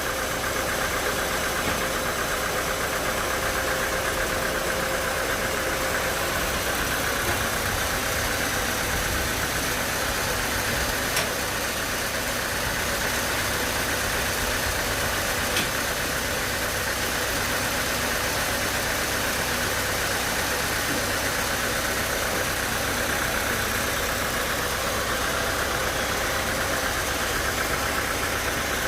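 Sawmill machinery running steadily: a constant mechanical drone with an even, high whine over it, and two brief clicks midway.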